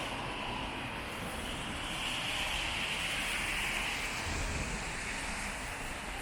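Tyres hissing on wet pavement as a vehicle passes, the hiss swelling about two seconds in and easing off a couple of seconds later, over a steady wash of rain-soaked street noise.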